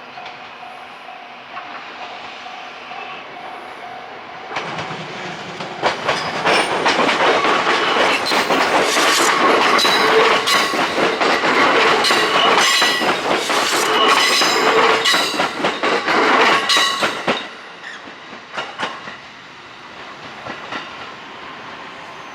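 JR E131 series electric train running past, its wheels clattering over rail joints in a rapid run of clicks with steady tones over them; it builds about five seconds in and cuts off sharply near the end.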